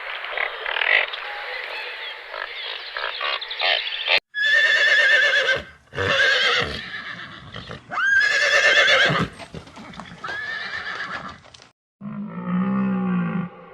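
A horse whinnying loudly several times, each call about a second or so long with a wavering pitch. Before it comes a few seconds of a thinner, clicking animal sound, and near the end it cuts to a deep, low call.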